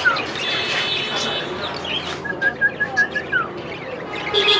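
Several cockatiels calling and chirping: a quick run of about seven short repeated chirps about halfway through, then a short falling whistle, over more scattered chirps and held whistles.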